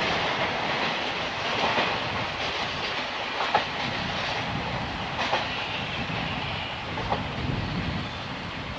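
A train passing, its wheels clacking over rail joints with a few sharp clicks, the noise easing off near the end.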